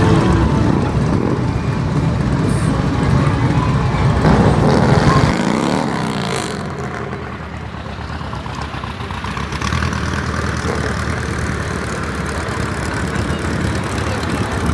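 Motorcycle engines running, with one going by in a pitch sweep about five seconds in; the engine sound changes suddenly just after.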